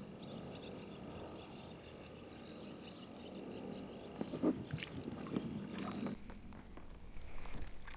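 Small birds chirping rapidly over a low steady rush of outdoor noise. From about four seconds in come close knocks, clicks and rustling of handling.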